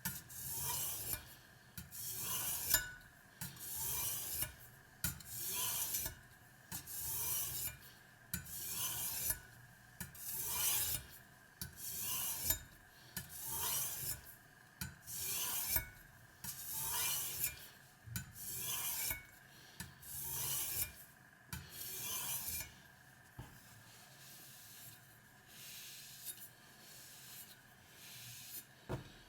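Knife blade stroked over a Spyderco medium-grit aluminium oxide bench stone wetted with water: a rhythmic rasping scrape about once a second, the strokes growing softer for the last several seconds.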